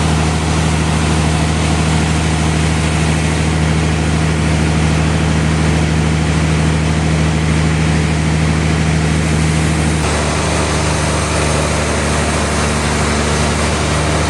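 Sawmill machinery running: a steady, loud engine-like drone with a low hum. Its tone changes abruptly about ten seconds in, then runs on steadily.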